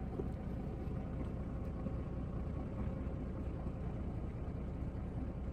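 Semi-truck engine running, a steady low rumble without change.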